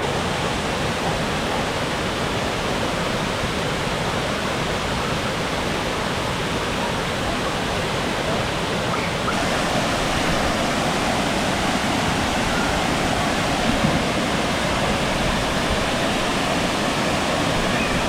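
Waterfall pouring into a pool: a steady, dense rush of falling water, growing slightly louder and brighter about nine seconds in.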